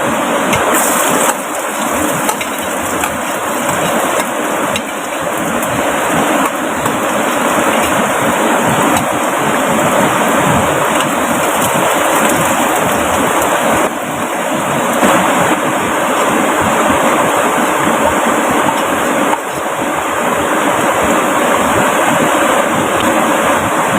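Loud, steady rush of water from heavy rain and the flowing river, an even hiss with no break, dipping slightly in level a few times.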